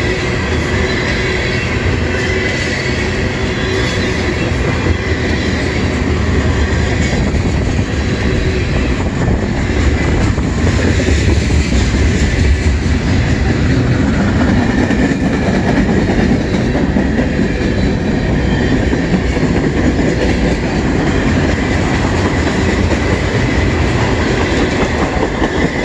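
Freight train cars rolling past close by: a continuous rumble with wheel clatter from tank cars and boxcars on the rails, a little louder from about ten seconds in, with a faint steady high tone over it.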